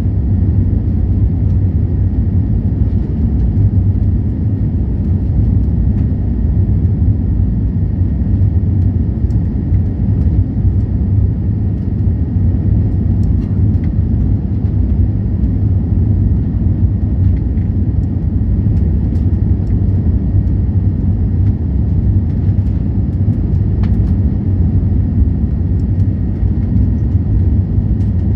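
Airliner jet engine noise: a loud, steady low rumble that holds unchanged, with a faint high steady tone above it.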